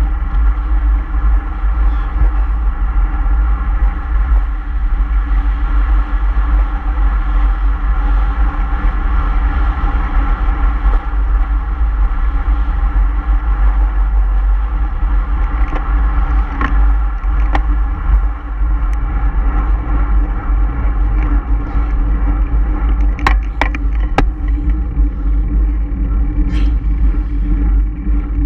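Motor vehicle driving at a steady cruise, its engine note held even, over a heavy low rumble of road and wind noise. A few sharp clicks about 23 seconds in.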